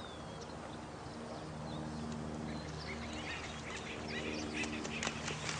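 Night nature ambience: a steady rush of running water under repeated bird chirps and calls, which grow busier about halfway through.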